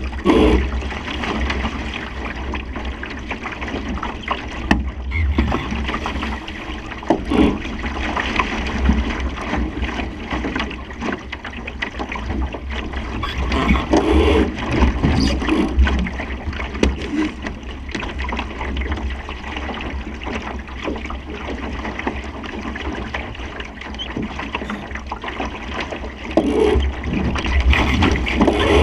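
Water rushing and gurgling along the hull of a Supernova sailing dinghy under way, with wind buffeting the microphone as a steady low rumble and now and then a short knock or splash.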